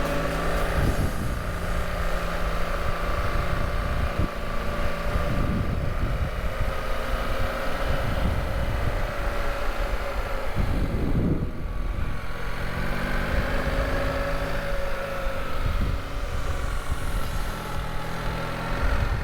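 Motorcycle engine running at moderate speed, its note rising and falling with the throttle, with heavy wind buffeting on the microphone.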